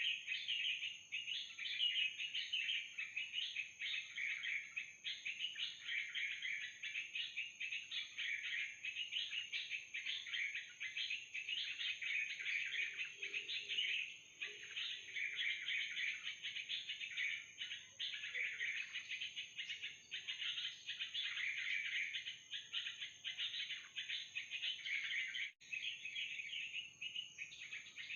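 Continuous, busy chattering calls of trucukan (yellow-vented bulbul), used as the lure for the trapping net, with a thin steady high tone underneath and a brief drop-out near the end.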